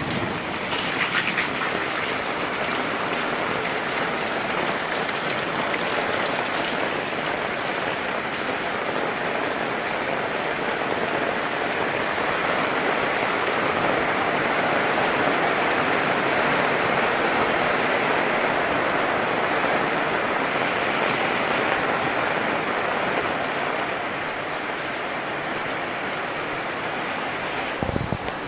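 Heavy rain falling steadily, a continuous hiss of rain on surfaces.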